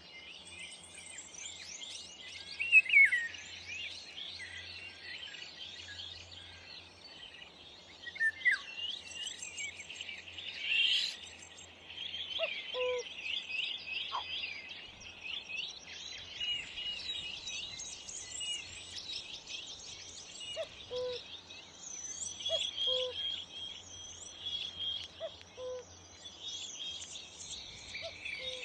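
Many small garden birds chirping and singing at once in a dense, continuous chatter of quick high notes, with a few louder calls cutting through about three, eight and eleven seconds in. A faint, short low note repeats in the background from about twelve seconds in.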